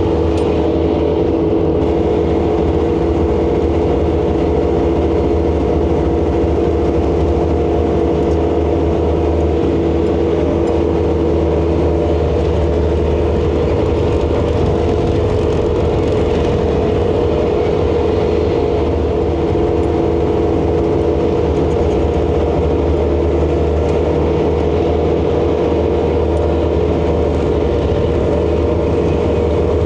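ASV RC100 skid steer's diesel engine running at a steady speed, a constant drone with several steady humming tones.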